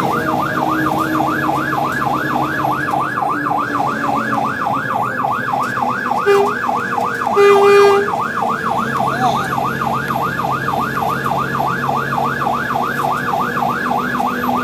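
Fire truck siren in a fast yelp, sweeping up and down about three to four times a second, over the truck's engine. The horn sounds briefly about six seconds in, then a longer, louder blast about a second later.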